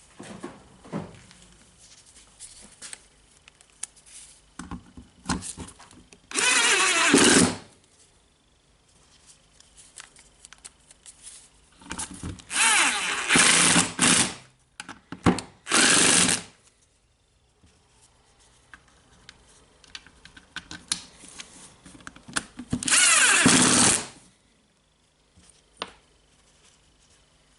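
Power screwdriver driving the housing screws into a Makita DGA452 angle grinder, running in four short bursts; the motor's whine sags in pitch as each screw tightens. Light clicks of handling fall between the bursts.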